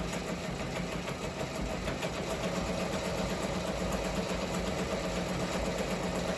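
Ricoma MT-1501 multi-needle embroidery machine running steadily, a rapid stitching chatter over a hum, as it sews a test design after its rotary hook timing has been reset.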